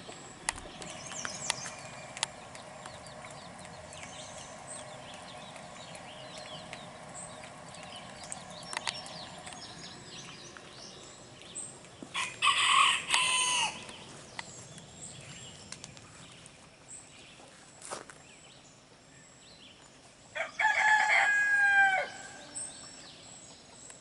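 A rooster crowing twice, about halfway through and again near the end. Each crow is a drawn-out call that drops in pitch as it ends.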